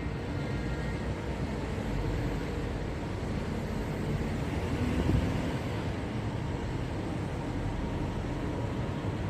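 City street traffic: vehicles driving past in a steady low rumble that swells briefly about five seconds in.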